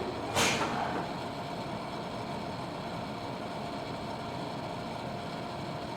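Tobu 70000 series subway train running between stations, heard inside the car as a steady rumble of running noise with a faint steady tone. About half a second in there is a brief sharp hiss.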